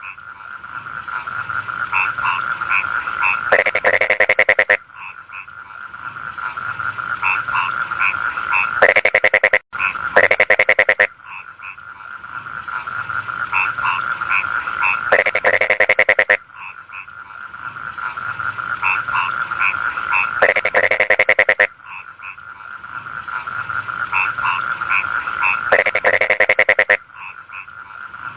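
Rice field frogs calling in chorus: a loud, rapid pulsed croak about a second long comes roughly every five seconds over a steady high trill and quick short chirping notes.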